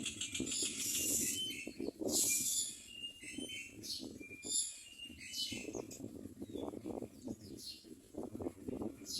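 Common myna calls: a series of harsh, hissing high-pitched bursts with short squeaky notes between them, over an irregular low scratchy noise.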